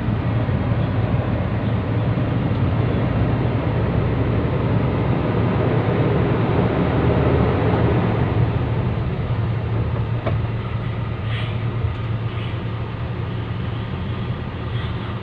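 Heavy diesel truck engine running with a steady low rumble, swelling a little around the middle as it comes closer, then easing.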